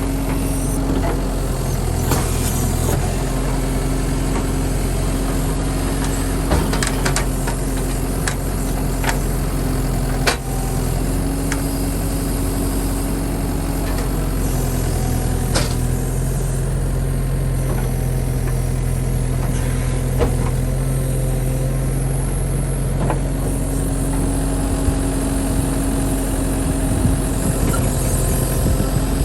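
Forestry machine's diesel engine running steadily during an operation check, with scattered short clanks and clicks. Its note shifts slightly about halfway through and settles back near the end.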